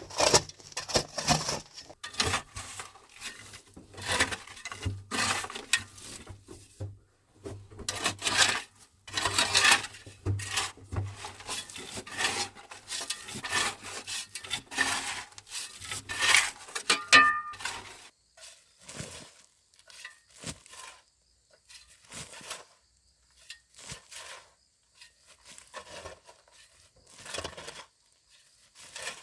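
Irregular scraping, rubbing and knocking, dense for about eighteen seconds, then sparse and quieter.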